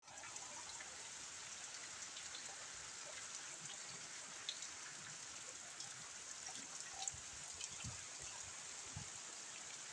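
Steady rain falling, a faint even hiss with scattered drops ticking on surfaces.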